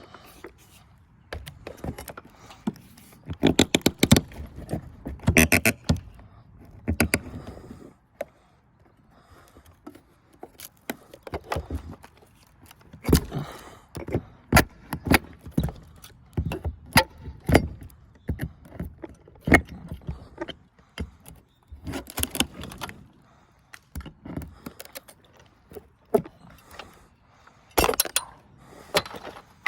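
Crowbar and flathead screwdriver prying and scraping out rotted wood: irregular knocks, scrapes and metallic clinks, in bursts with short pauses.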